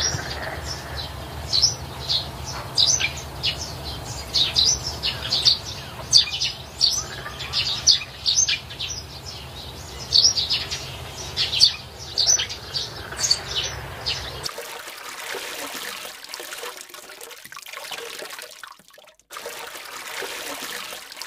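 Many birds chirping busily over a steady hiss and a low hum. About two-thirds of the way in, the chirping and hum stop abruptly, leaving only the steady hiss of heavy rain.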